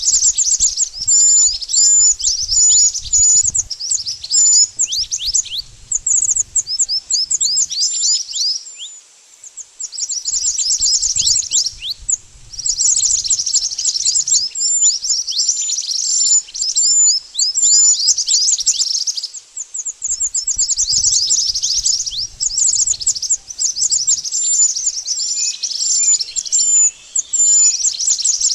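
Scarlet minivets (burung mantenan) calling: rapid runs of high, thin, falling chirps, many overlapping, with two brief breaks. It is the kind of recording played as a lure to draw the birds in.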